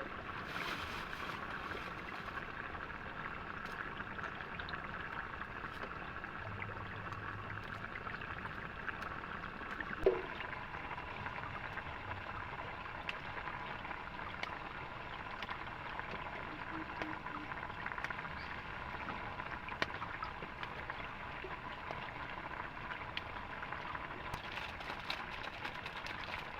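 Steady rushing water from the river current and rain, with one sharp knock about ten seconds in.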